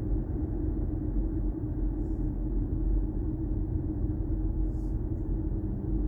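Steady low rumble of road and tyre noise inside the cabin of a BMW i4 M50 electric car driving along, with a steady low hum underneath.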